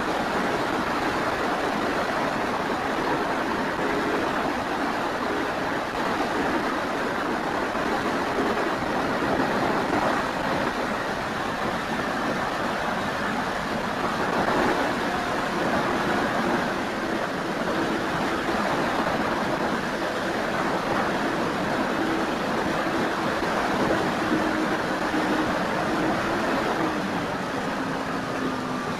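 Wind rushing over the microphone of a keychain camera riding on an FMS Cessna 182 RC model plane in flight. Under the wind noise, the plane's electric motor and propeller hum faintly, their pitch sliding up and down with the throttle in the second half.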